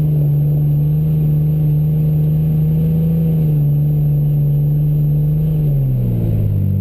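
Mitsubishi Pajero's engine running under load at steady raised revs, the note dropping about six seconds in as the revs fall.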